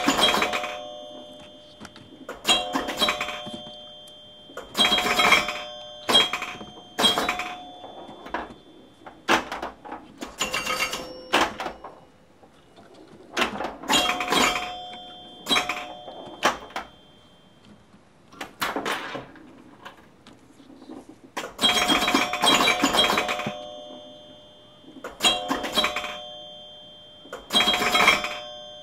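Sharp clanks, each followed by a short bell-like ring that sounds the same every time, coming in clusters of a few strikes every one to two seconds, with quieter gaps in between. They fit fruit being dropped into a ringing bowl.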